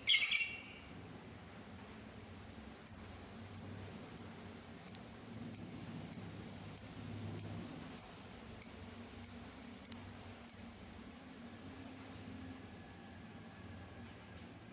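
Labet bird calling: one loud call at the start, then a run of about a dozen short, high chirps, roughly one every two-thirds of a second, that stops about 11 s in, followed by faint softer chirping. A steady thin high-pitched tone runs underneath throughout.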